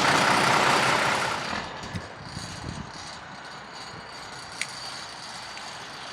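Mack R-model diesel truck running, loud for about the first second and a half, then dropping to a quieter steady idle with a few low thumps and a sharp click.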